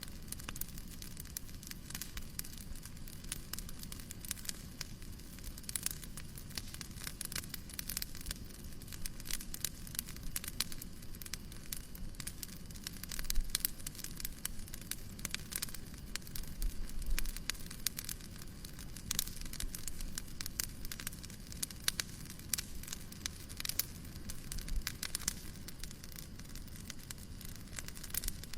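Wood fire crackling with many irregular sharp pops over a steady hiss of white noise.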